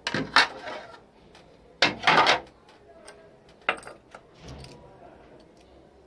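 Small hard parts being handled: two short, loud rattles and a sharp click.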